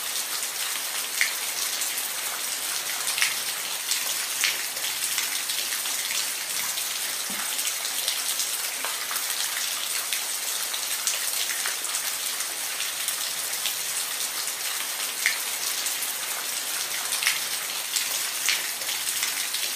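Steady rain falling, a dense high hiss with individual drops ticking sharply at irregular moments.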